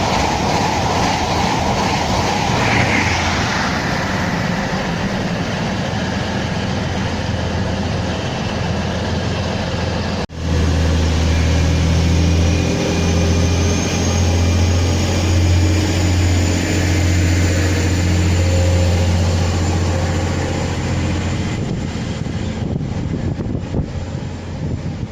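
A train running past at close range: loud rushing noise, broken suddenly about ten seconds in. After the break a deep steady hum dominates, with a faint rising high whine, and the sound fades near the end.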